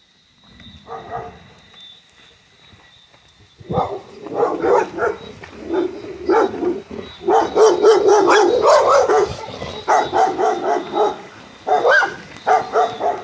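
Several dogs barking at close range: a short outburst about a second in, then a loud, nearly continuous volley of barks from about four seconds in.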